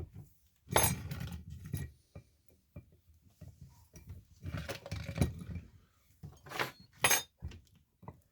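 Pieces of layered fossil-bearing rock clinking and scraping as they are worked apart and handled, with a run of knocks and scrapes about a second in and again near the middle, and two sharp clinks near the end.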